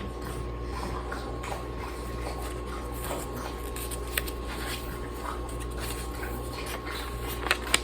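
Quiet handling noises, small scattered clicks and light rustling over a steady low hum, with a few sharper clicks near the end.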